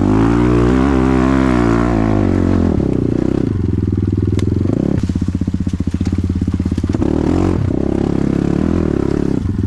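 Kovi GNS 300 enduro bike's engine revving high, then dropping to a lower, evenly pulsing run with the throttle blipped a few times.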